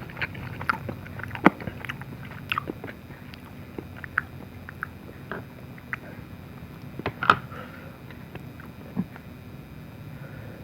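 Close-up chewing and mouth sounds of someone eating dim sum, with scattered small wet clicks and two sharper clicks, one about a second and a half in and one past the middle.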